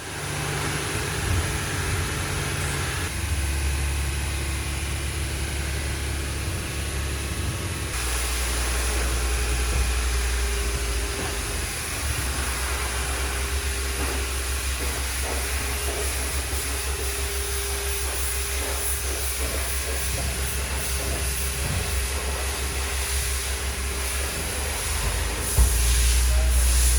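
Steady machine hum with a hiss over it, cut into several pieces, with a louder piece starting near the end.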